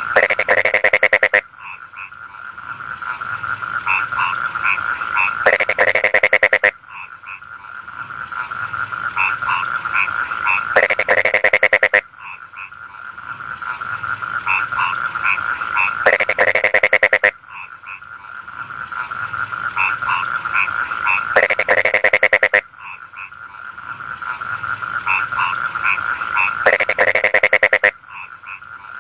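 Rice-field frogs calling: a loud, fast rattling croak of just over a second comes back about every five seconds, with quieter short repeated notes and a steady high chorus between.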